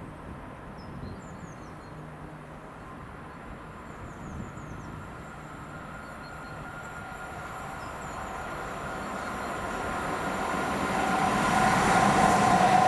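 Swiss train approaching, its rumble growing steadily louder over the last several seconds, with a rising whine as it nears.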